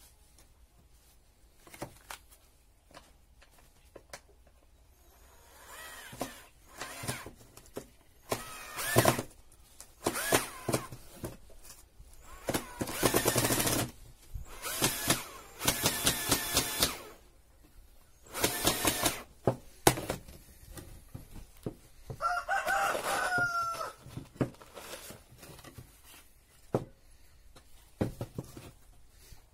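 Several loud bursts of work noise with clicks and knocks between them, and a rooster crowing once about three-quarters of the way through.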